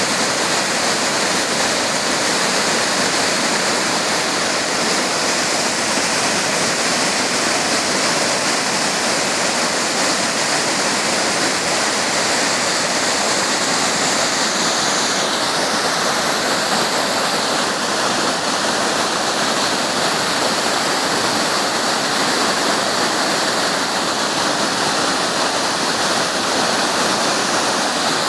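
Waterfall rushing, a loud, steady noise of falling water.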